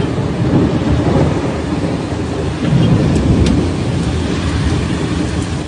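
Thunderstorm: heavy rain falling steadily with low rumbles of thunder, swelling twice.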